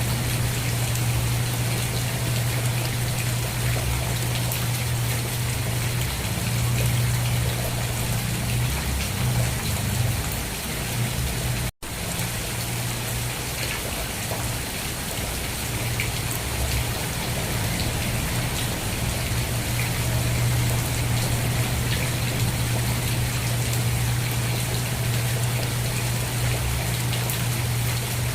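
Steady rainfall with a steady low hum beneath it. The sound cuts out for an instant about twelve seconds in, then resumes unchanged.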